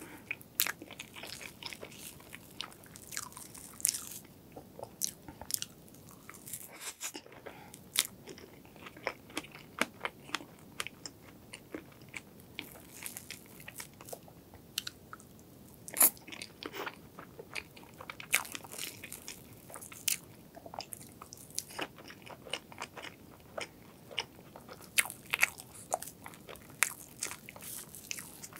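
Close-miked eating sounds: strawberry crepe cake with cream being chewed, with many short sharp clicks throughout, the loudest about halfway through.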